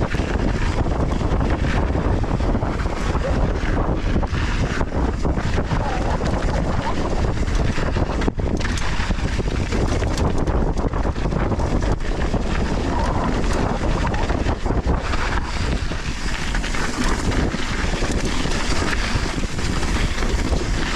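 Wind buffeting a GoPro microphone on a fast downhill mountain-bike run, over a continuous low rumble and rapid clatter from the Specialized Status's tyres and frame on loose volcanic soil.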